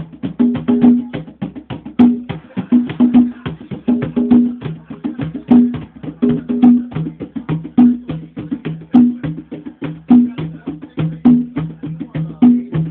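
Fast, dense drumming, struck many times a second, with a lower and a higher pitched drum tone recurring in a repeating pattern.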